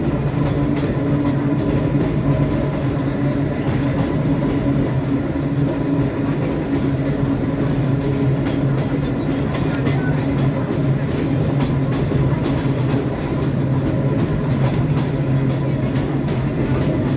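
Subway train running steadily on the rails, with a constant hum and a steady rumble of wheels over track.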